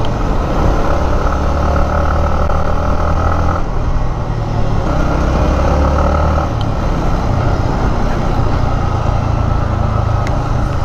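Yamaha MT-15's 155 cc single-cylinder engine running under way, heard from a handlebar-mounted camera. Its note changes about four seconds in and again near seven seconds.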